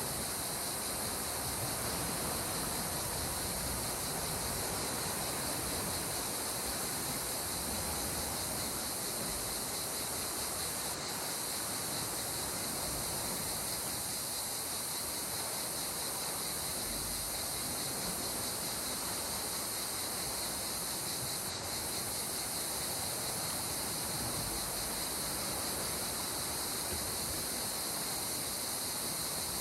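Steady ambience of calm sea water: an even, unbroken hiss with no distinct wave breaks or other events.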